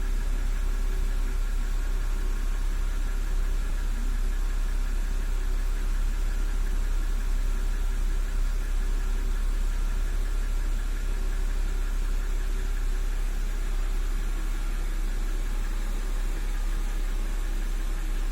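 BMW N52B25 2.5-litre straight-six engine running steadily with a knocking noise, whose cause the owner cannot pin down: a hydraulic lifter, a camshaft journal or the bearing shells.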